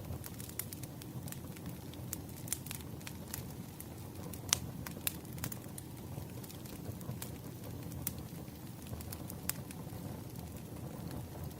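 Wood fire crackling: irregular sharp pops and snaps over a steady low rumble of burning logs, with one louder pop about four and a half seconds in.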